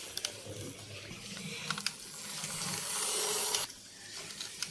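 Toy car rolling along with a rushing hiss and a few small clicks, swelling and then stopping suddenly about three and a half seconds in.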